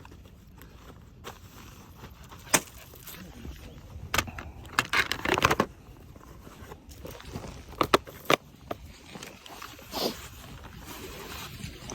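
Scattered sharp knocks and clicks, with a short burst of scraping and rustling about five seconds in.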